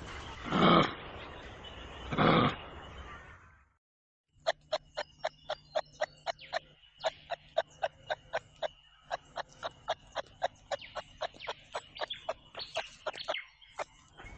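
Kangaroo calls: two loud, harsh calls about a second and a half apart, then after a brief break a long run of short clicking clucks, about three a second, over a faint steady hum.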